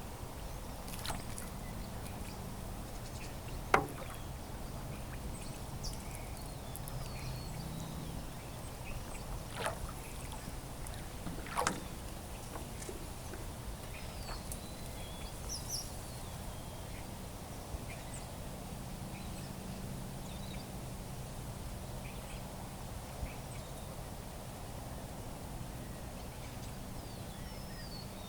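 Stand-up paddleboard paddling: steady water sounds from the paddle strokes, with a few sharp knocks, the loudest about four seconds in, and scattered small high bird chirps.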